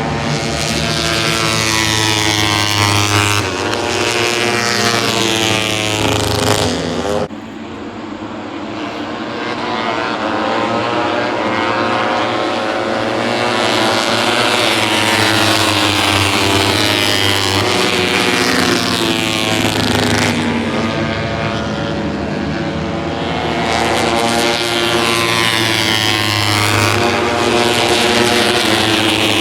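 Moto3 racing motorcycles' 250 cc single-cylinder four-stroke engines at high revs, several bikes passing one after another. The pitch sweeps up and down as they accelerate, shift and brake, with a sudden break about seven seconds in.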